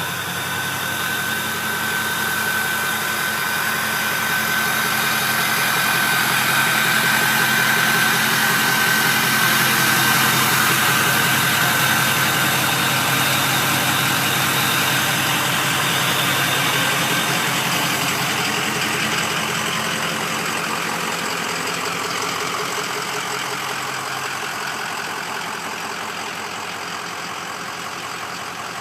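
Ford Powerstroke turbodiesel idling steadily through an 8-inch exhaust stack, with a steady high whistle over the engine note. It swells gradually, then eases off.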